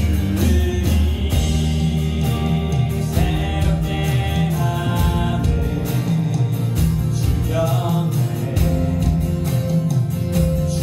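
Live worship band playing with a steady beat: acoustic guitar, keyboard, bass guitar and electronic drums.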